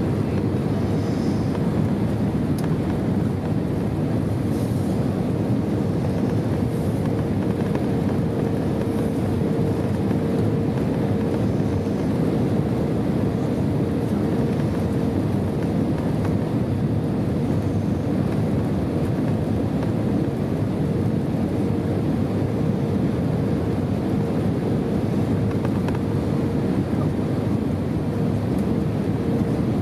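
Steady cabin noise inside an Airbus A320: engine and airflow rush with a constant mid-pitched hum, unchanging throughout.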